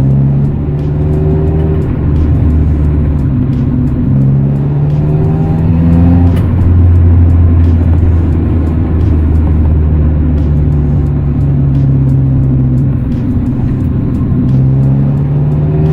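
Honda Integra four-cylinder engine with its muffler deleted, driven through the gears. The exhaust note rises in pitch under acceleration and drops back at the upshifts, holds steady for a few seconds in the middle, and climbs again near the end.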